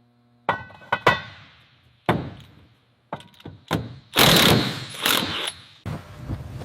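A series of sharp mechanical clunks and clicks from assembly tools and fittings. A louder, longer noisy burst lasts about a second and a half just past the middle.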